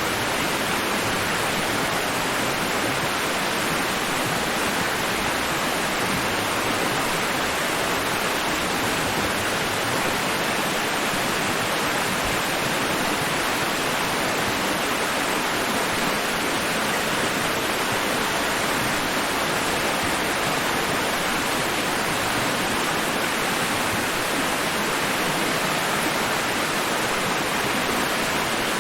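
Steady white-noise hiss, a dense even rush spread across the whole range, with no rise and fall of waves.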